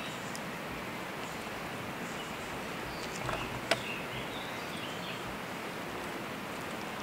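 Steady outdoor forest background noise, with two short sharp clicks about three and a half seconds in and a few faint high chirps just after.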